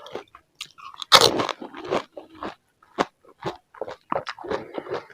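Biting into and chewing crisp pani puri (golgappa) shells: one loud crunch about a second in, then repeated crunching and chewing.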